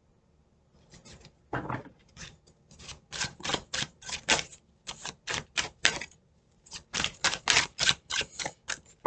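A deck of tarot cards being shuffled by hand: a quick run of sharp papery card slaps, about three a second, starting about a second in.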